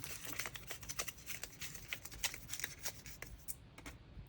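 Light rustling and many small clicks of packaged stationery being handled by hand, thinning out near the end.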